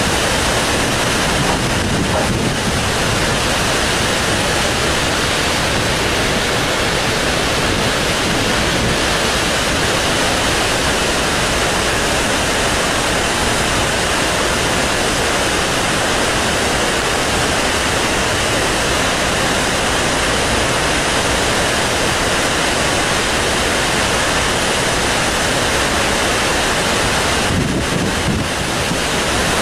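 Heavy, steady rush of high-pressure water pouring out of Tarbela Dam after heavy rain, an even noise with no let-up.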